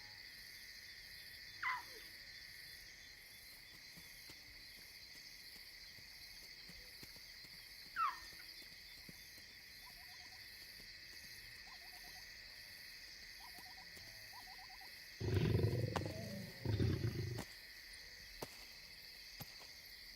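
Lions growling in two loud, low bursts near the end, over a steady chorus of crickets. Two brief falling whistled calls sound earlier on.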